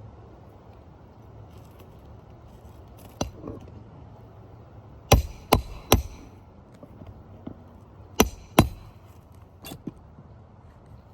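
Sharp hammer strikes on metal during a roof shingle repair: a single blow, then three quick blows, then two more, typical of driving a roofing nail back in with a roof snake.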